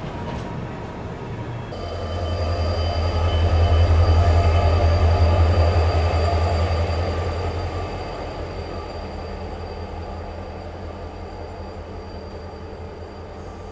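Passenger train running on the rails: a low rumble that swells to its loudest about four seconds in, then slowly fades.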